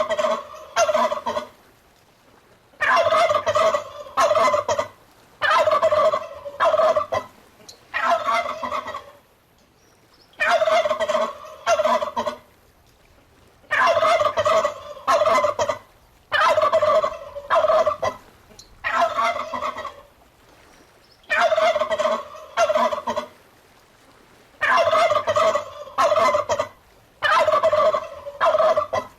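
Turkey gobbling: loud, rattling gobbles repeated over and over, one every two to three seconds with short pauses between.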